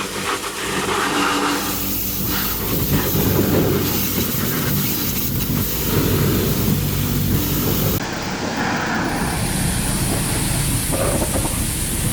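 A machine running with a steady hiss and hum, changing abruptly several times as if cut between clips.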